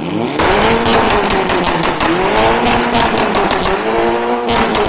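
Modified car engines revved hard in a tunnel: the pitch climbs and falls in about three rev sweeps, with a rapid volley of loud exhaust pops and bangs crackling over them, echoing off the tunnel walls.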